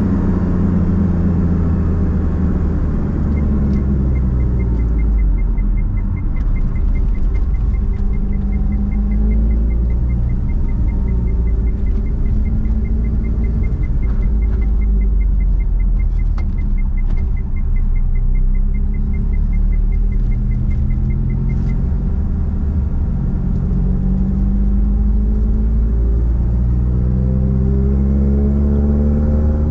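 Nissan Platina four-cylinder engine running through a straight-pipe exhaust, heard from inside the car while driving: the revs fall at first, settle into a low steady drone, then climb again near the end as it accelerates. A regular light ticking, about three a second, runs through the first two-thirds.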